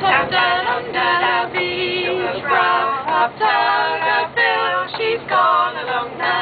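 Three women singing a sea shanty together, unaccompanied.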